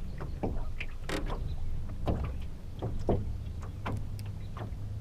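Small fishing boat on the water: irregular knocks and splashes of water against the hull, the strongest about a second in, over a low steady hum.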